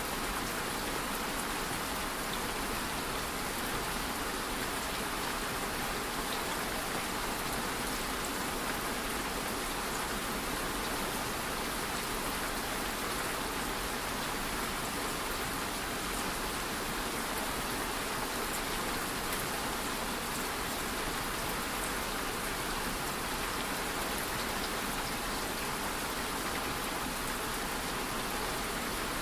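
Steady rain falling and pattering on a surface, an even hiss with fine scattered drop ticks and no thunder.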